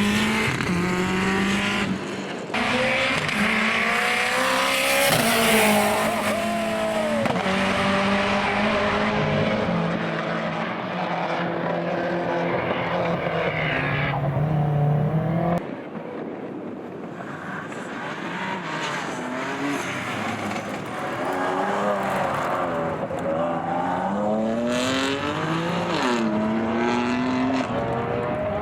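Rally cars accelerating hard away from the start line, engines revving up and changing gear. The level drops suddenly about halfway through, and another car's engine climbs in pitch near the end.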